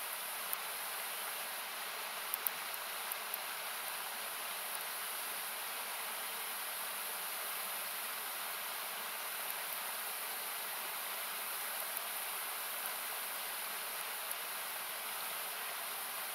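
Steady rushing of a nearby river, heard as an even hiss, with the occasional sharp crackle of a wood campfire popping.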